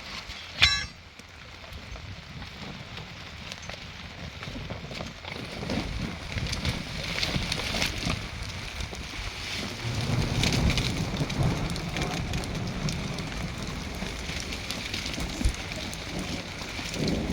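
Steady rain pattering, full of fine drop ticks, with one sharp knock about a second in.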